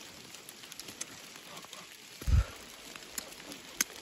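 Light rain falling on the garden, with raindrops striking the phone and ticking as scattered sharp clicks over a soft steady hiss. A single dull low thump a little past halfway.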